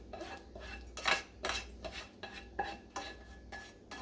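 A utensil stirring a pot of pasta in thick sauce, scraping and knocking against the pan in a string of irregular strokes with a light metallic ring.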